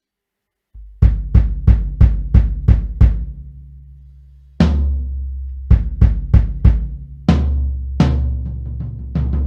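A drum kit (Pearl Reference bass drum and floor tom with Tama Starclassic Performer toms) being played. About a second in comes a quick, even run of about seven strokes whose low ring dies away. Then, from the middle on, come heavier accented hits with a long-ringing high end, followed by more strokes.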